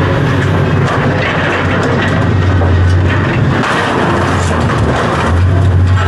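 A large engine running steadily, with a low hum and scattered rattles and clicks over it.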